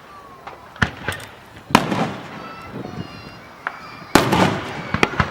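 Aerial fireworks going off: a run of separate sharp bangs, the loudest and densest burst about four seconds in, and more bangs near the end.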